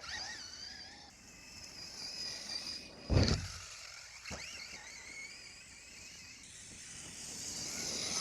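Electric RC truck's motor whining, its pitch rising and falling with the throttle. There is a sharp thump about three seconds in and a smaller knock about a second later.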